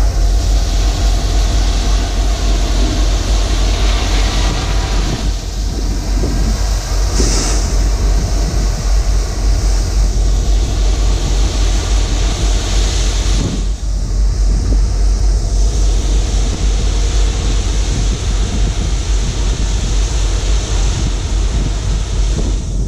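Herzog ballast train cars rolling past on the rails, a steady, unbroken rumble of wheels and cars.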